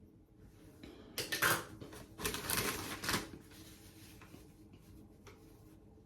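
Two short bursts of rapid clattering, a second or so apart, from small objects being handled.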